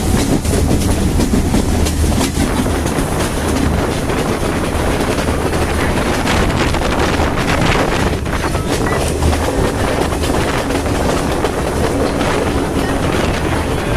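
A moving passenger train: a steady, loud rumble of wheels and carriage on the rails, with scattered knocks and rattles.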